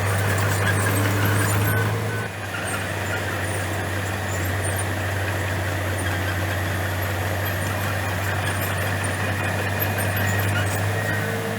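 Heavy bulldozer's diesel engine running steadily under work, easing off a little about two seconds in.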